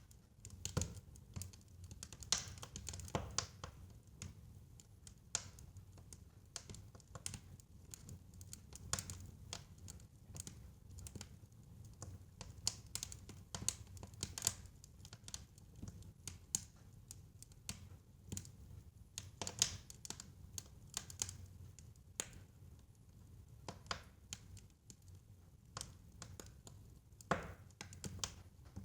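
Fireplace fire crackling: irregular sharp snaps and pops, several a second, with a few louder pops about two seconds in, near the middle and near the end, over a low steady rumble.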